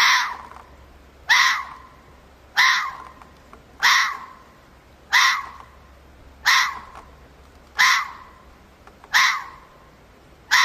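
An animal call repeated at very even spacing, about once every 1.3 seconds, each call short and harsh and falling slightly in pitch.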